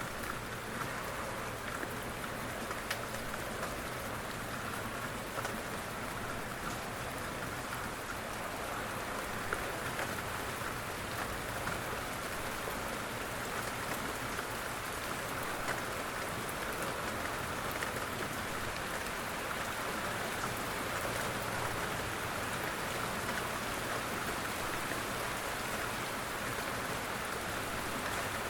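Steady rain, an even hiss of falling drops with a few sharper single drop taps standing out now and then.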